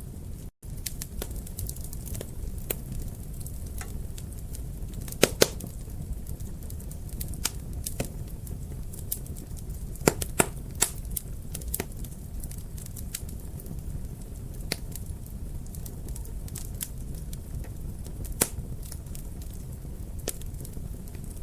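Wood fire crackling in a fireplace: a steady low rumble of flames with frequent sharp snaps and pops. The loudest are a pair about five seconds in, a cluster around ten seconds and a single pop near eighteen seconds. There is a split-second break in the sound near the start.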